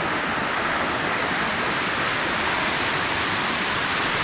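Waterfall pouring into its pool: a steady, loud rush of falling water.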